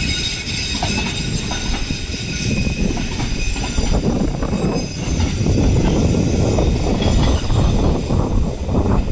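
Freight train's intermodal container wagons rolling past, a steady low rumble of wheels on rail. Thin high-pitched wheel squeal sounds over it and fades away about four seconds in.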